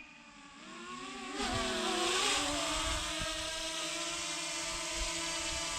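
Small quadcopter drone's propellers whining as it flies. The whine grows louder and rises in pitch over the first second or two, then holds steady.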